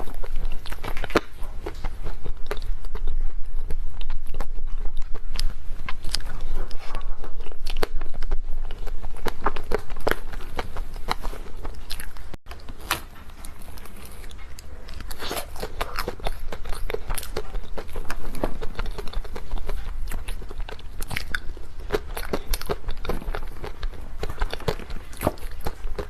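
Close-miked biting and chewing of mousse cake, full of small, irregular wet mouth clicks and soft crunches.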